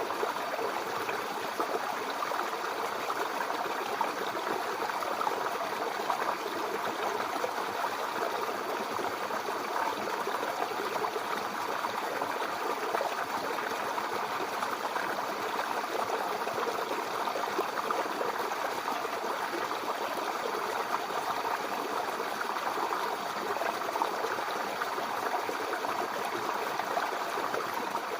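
A babbling brook: shallow water running and trickling over stones in a steady, even flow.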